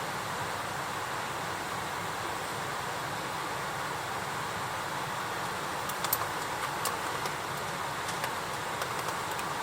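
Wood fire burning in a campfire: a steady hiss with sharp crackles and pops, several of them in the second half.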